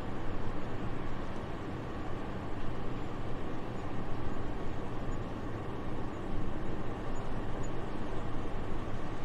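Soft, steady wind noise, a deep even rush that swells and eases gently, with no gusts or distinct sounds in it.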